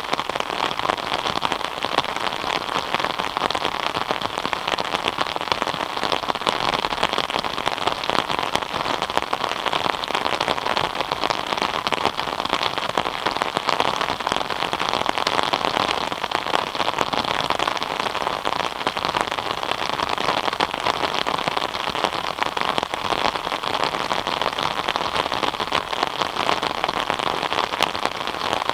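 Steady rain, with many separate drops ticking on a surface, at an even level throughout.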